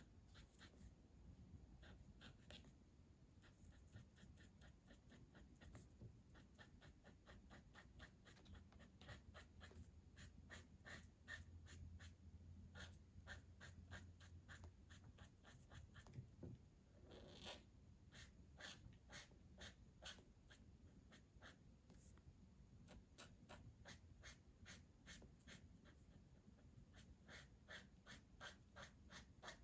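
Faint, repeated strokes of a coloring tool scratching across paper, a few strokes a second, in an even rhythm.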